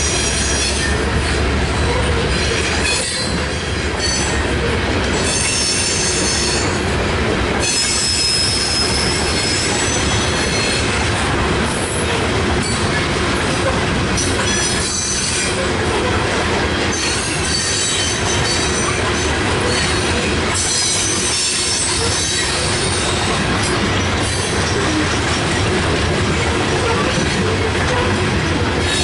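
Loaded coal hopper cars of a freight train rolling past close by: a loud, steady noise of steel wheels on rail, with high-pitched wheel squeals coming and going.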